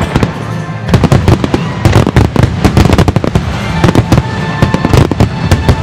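Fireworks finale barrage: many aerial shells bursting almost at once in a dense, rapid run of overlapping bangs and crackles, starting about a second in.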